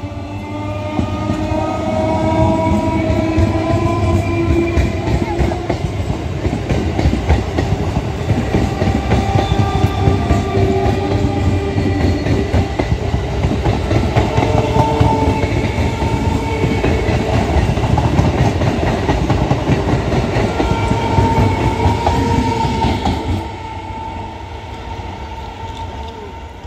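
EMU electric local passenger train sounding its horn as it approaches, then passing close by with loud, continuous wheel clatter on the rails. The clatter drops away suddenly near the end as the last coach goes past.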